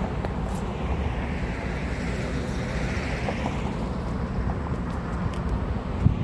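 Wind rumbling on the microphone over street traffic noise, with a vehicle swelling past about three seconds in and a short knock near the end.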